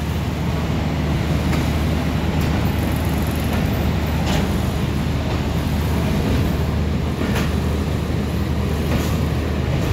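Passenger train carriage running slowly through a station: a steady low rumble with a few sharp, irregularly spaced clacks from the wheels and running gear.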